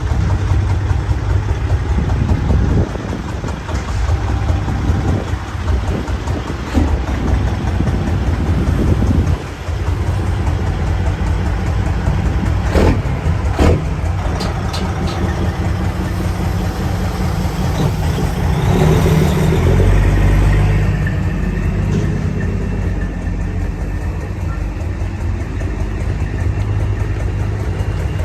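Motor vehicle engine running with a steady low rumble, growing louder for a couple of seconds about twenty seconds in.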